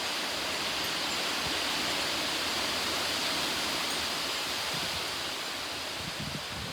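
Heavy thunderstorm rain pouring steadily in strong wind, with a couple of low gusts hitting the microphone near the end.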